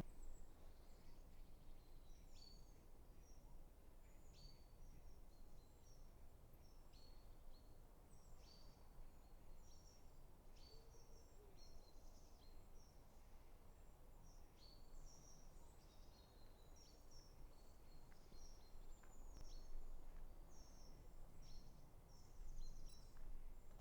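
Faint birdsong in near silence: many short, high chirps and calls from small birds, coming every second or so, over a faint low rumble.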